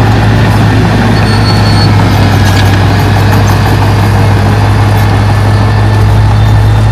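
Heavy diesel earthmoving machinery running steadily, a loud, even low engine drone.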